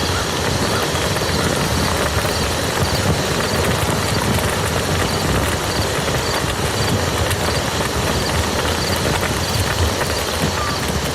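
Rain falling steadily on a muddy field, a dense, even hiss of drops with no let-up.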